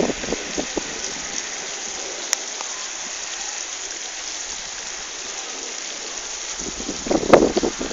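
Steady hiss of rain falling, with a brief louder burst of sound about seven seconds in.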